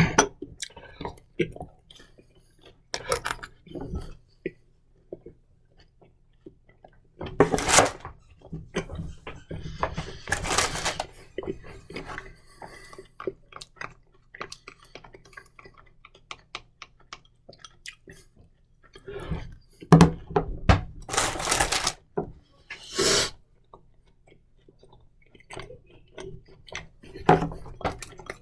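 Eating sounds: a spoon clinking and scraping in a jar of mustard, and chewing, broken by a few loud, short rushing bursts.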